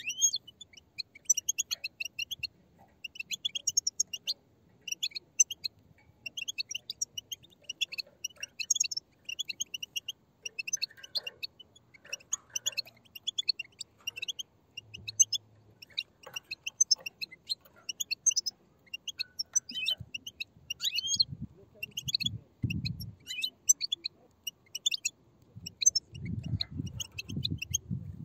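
Many European goldfinch chicks giving rapid, high-pitched chattering begging calls in quick bursts that overlap without pause. A low muffled rumble comes in twice toward the end.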